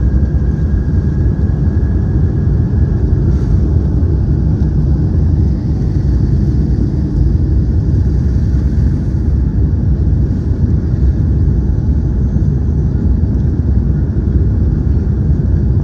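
Boeing 787-9 Dreamliner at takeoff: a steady, heavy jet-engine rumble, with a faint high whine that rises slightly during the first few seconds and then fades.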